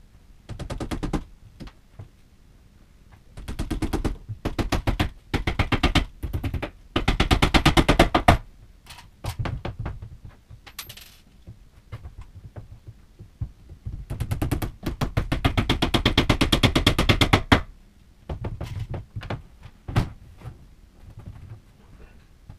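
Bursts of rapid, evenly spaced knocking, each lasting about one to three seconds and coming about six times, as fasteners are driven into the bookcase's wooden boards.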